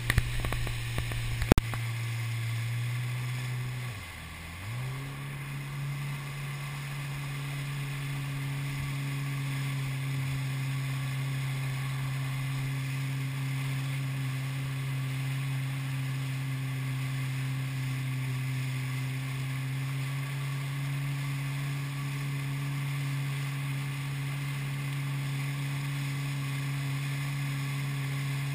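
Jet ski engine running at a steady cruising speed, a low drone. About four seconds in the revs drop briefly and climb back, then hold steady. There are a few sharp knocks in the first two seconds.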